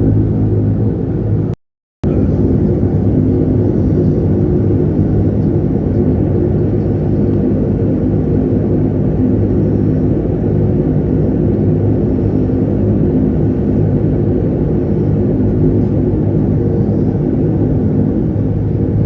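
Dash 8-300's turboprop engines and propellers running with a steady, loud low drone. The sound drops out completely for about half a second near 2 seconds in.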